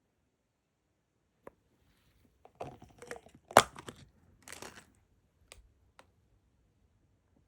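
Crinkling and rustling with several sharp clicks, the loudest click about halfway through, then two lighter clicks.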